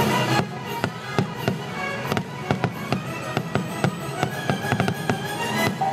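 Fireworks going off in a dense volley of sharp bangs and pops, several a second, over orchestral show music.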